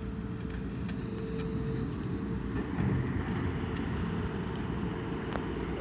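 A steady, low engine rumble with a constant hum, and a few light clicks over it.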